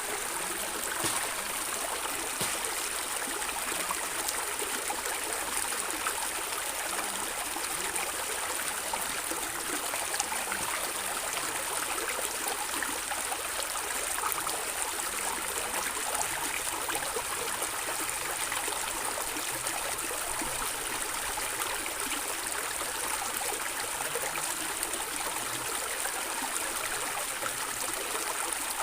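Water gurgling and trickling in a stream: a steady babble with many small splashes and drips.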